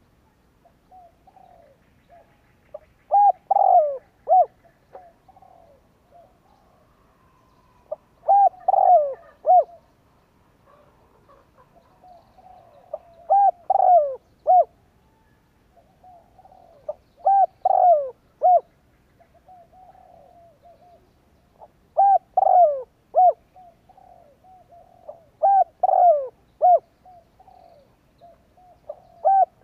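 Spotted dove cooing: loud phrases of three or four short, bending coos repeated about every four to five seconds, with softer cooing notes between the phrases.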